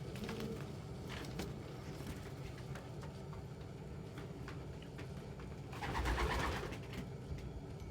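Domestic pigeons cooing, with a brief louder rustling burst about six seconds in.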